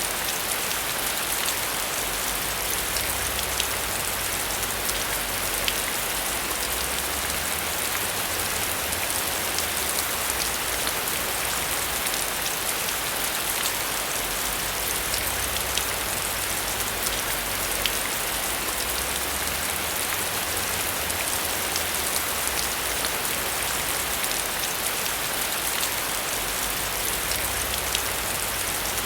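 Steady heavy rain: a dense, even hiss with many small, sharp drop ticks scattered through it.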